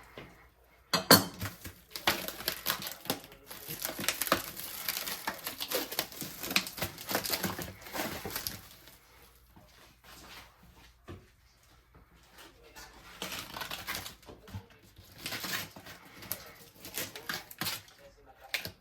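Kitchen clatter of dishes and utensils in two spells: a sharp knock about a second in, dense clinking and knocking for several seconds, a quieter stretch midway, then more clatter near the end.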